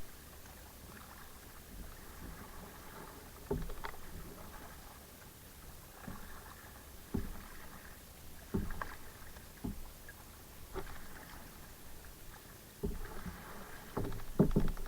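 Kayak out on the water: irregular splashes and knocks from the paddle and hull, a few seconds apart, with a quick cluster of them near the end.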